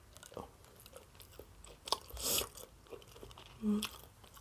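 Close-miked mouth sounds of a person eating: small wet clicks of chewing and smacking, with a louder crunchy smack about two seconds in. Near the end comes a short low hummed "mm".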